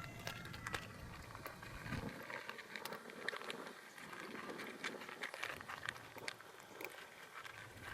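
Cats crunching dry cat food: many small, irregular crunching clicks.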